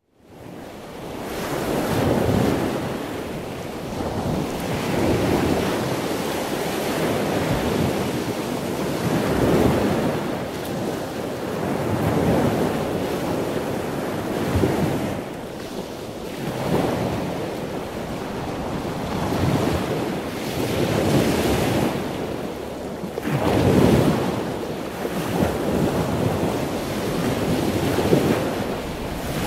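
Ocean surf: waves rising and falling every two seconds or so, fading in from silence at the very start.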